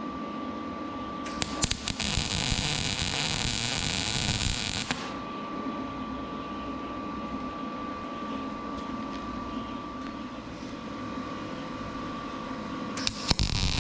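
Electric arc welding: an arc strikes with a few sharp clicks about two seconds in and runs as a steady hiss for about three seconds, then stops; a second weld starts near the end. Between the welds, the welding machine's steady hum with a thin constant tone.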